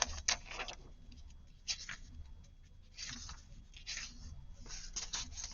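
Paper rustling and sliding as sheets are handled and laid down, in short scattered spells with a few light clicks.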